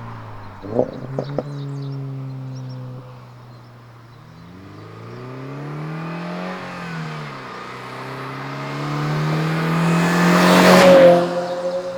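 2022 GR86/BRZ's 2.4-litre flat-four running through a Borla S-Type cat-back exhaust, its pitch falling, then rising and falling, then climbing to its loudest about eleven seconds in before dropping off. A few short clicks come about a second in.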